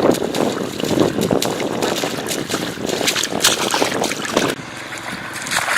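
Flowing floodwater with irregular splashing and sloshing.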